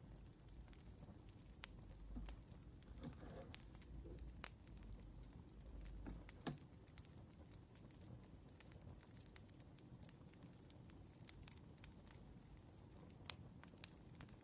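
Wood fire crackling: faint, irregular pops and snaps over a low hum, with a short soft rustle about three seconds in.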